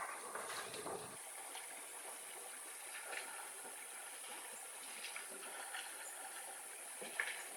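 Steady hiss with scattered light crackles and clicks from cooking over an open campfire, with a few sharper ticks about a second in and near the end.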